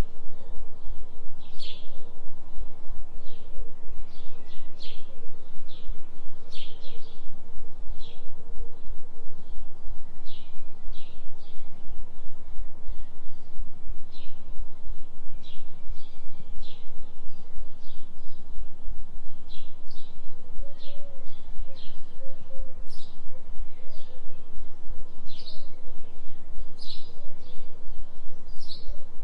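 A low, steady binaural hum for a 3 Hz delta beat, pulsing a few times a second. Over it runs a forest recording of songbirds giving many short high chirps.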